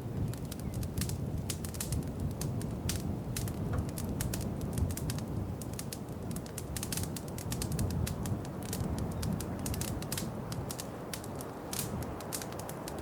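Wood fire crackling in a fireplace: a dense, irregular run of sharp pops and snaps over a low, steady rumble of the flames.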